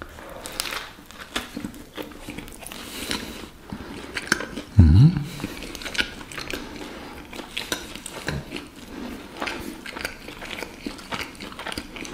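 A person chewing a mouthful of a breaded fried fish sandwich in a bread roll, close to the microphone: irregular chewing with small crunchy clicks. A short hum of a voice comes about five seconds in.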